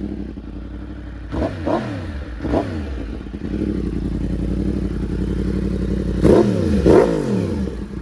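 2019 Yamaha R1's crossplane inline-four engine idling and being revved in short throttle blips, each falling straight back to idle: three quick blips early on, then two sharper, louder revs later.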